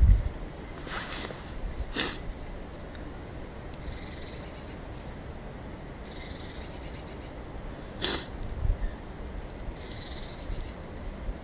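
A small songbird sings three short, high trilled phrases about three seconds apart. Three sharp cracks sound about one, two and eight seconds in.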